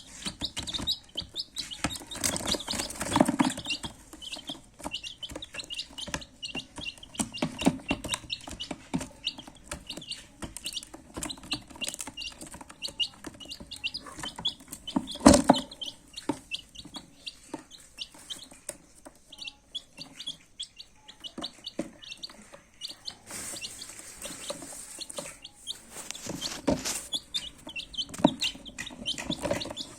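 A group of baby chicks peeping continuously in quick, short, high chirps. A few louder knocks break in, the loudest about halfway through.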